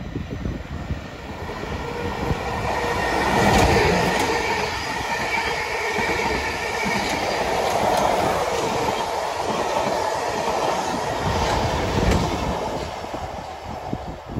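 South Western Railway electric multiple unit passing close by, its noise building over the first few seconds as it approaches. Its wheels clatter over the rail joints, and the sound fades near the end as it moves away.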